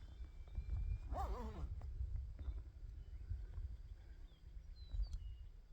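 An animal's single call about a second in, a short cry with a bending pitch, over a steady low rumble, with faint high bird-like chirps.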